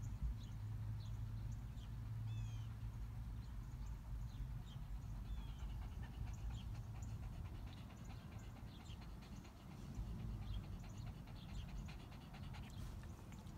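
A dog panting, with short high squeaks and whimpers scattered throughout, over a steady low hum.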